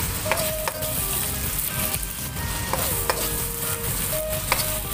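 Prawns frying in chilli sambal, sizzling steadily in the pan, with a spatula scraping and tapping against the pan every second or so as the mixture is stirred.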